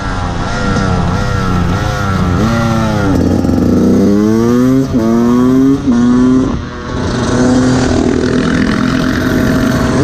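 Dirt bike engine under hard acceleration: its pitch wavers, then climbs in three rising sweeps, each dropping back sharply at a gear change, and holds fairly steady at high revs near the end.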